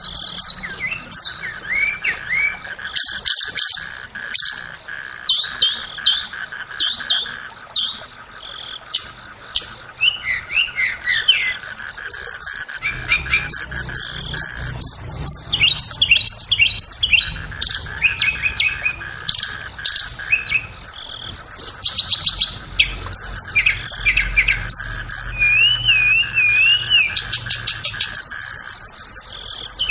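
Flowerpecker song: a fast, busy run of high, thin chips, rapid trills and sweeping notes, repeated without pause over a faint steady drone. It is the kind of recorded tledekan song that keepers play to goad a bird into singing.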